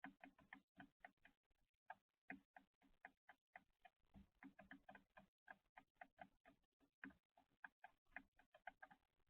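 Birds pecking at seed on a feeder: quick, uneven tapping of beaks on the feeder surface, several taps a second.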